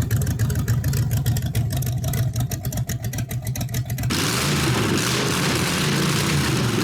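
A vehicle engine running with a strong, rapidly pulsing exhaust note. About four seconds in it cuts abruptly to a steady rushing engine and road noise.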